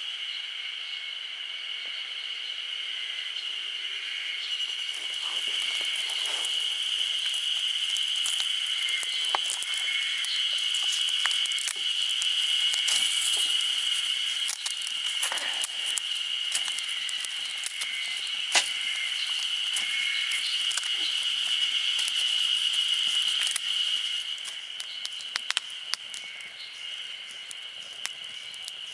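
Steady, high-pitched chorus of insects, with scattered sharp crackles and clicks over it, thickest in the middle and thinning near the end.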